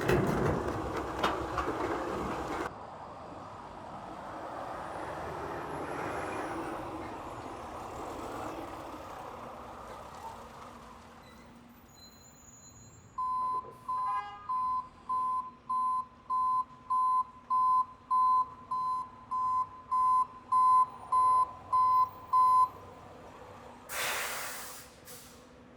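Garbage truck's reversing alarm beeping steadily, about two beeps a second for roughly ten seconds, after a stretch of truck running noise. A brief loud rush of noise comes near the end.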